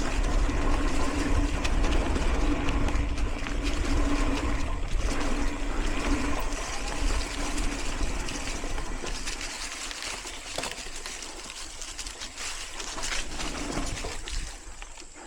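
Mountain bike riding at speed: wind rushing over the microphone and tyre noise, with a steady low hum through the first half that drops away, growing quieter toward the end.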